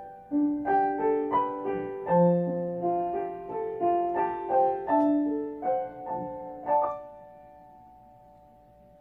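Outro music: a piano playing a gentle melody of single struck notes, about three a second, ending on a held note near the end that fades away.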